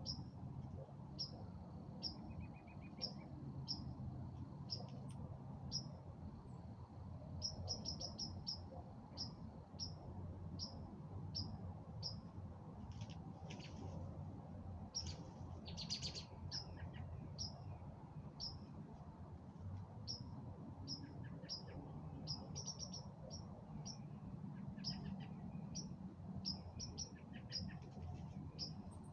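Songbirds calling at dusk: one bird repeats short, high chip notes about once or twice a second, sometimes in quick runs, while other birds call briefly around the middle. A faint thin steady tone is heard for the first several seconds, over a steady low background rumble.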